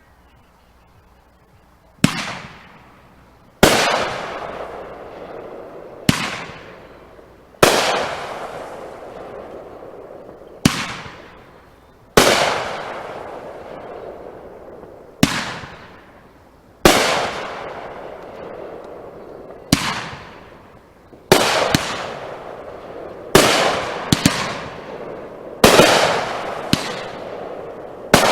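Fireworks going off in a string of about fifteen sharp bangs, starting about two seconds in, spaced one to three seconds apart. Each bang is followed by a hiss that fades over a second or two.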